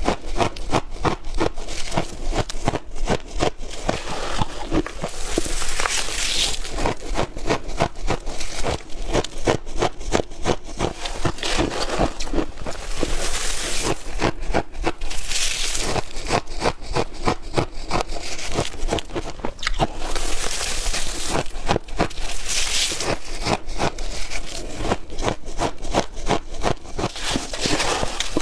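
Chunky ice being bitten and crunched close to the microphone: a dense, unbroken run of sharp cracks and crunches, with a brief hissy rush every several seconds.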